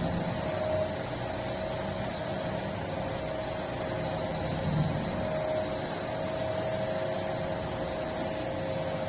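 Packing machine running with a steady mechanical hum and a faint steady tone, and a brief low swell a little under five seconds in.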